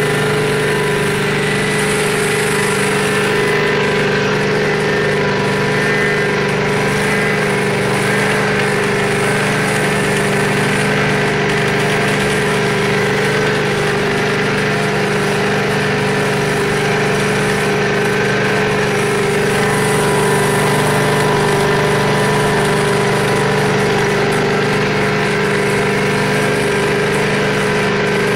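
Prochem Legend SE truck-mount carpet cleaner running steadily, its 22 hp Kohler engine and Cat pump holding an even, unchanging hum with a steady tone over it.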